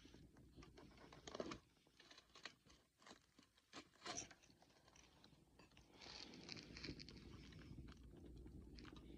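Wood bonfire crackling, with scattered sharp pops over a low, soft sound of burning. The loudest pops come about a second and a half and four seconds in, and the crackle grows denser and steadier in the second half.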